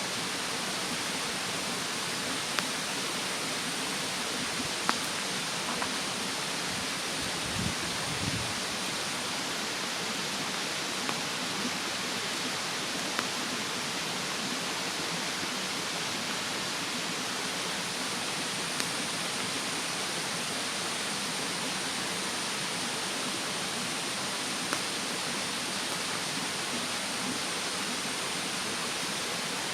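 Bonfire in a fire stand crackling, with a sharp pop every few seconds, over the steady rush of a mountain stream.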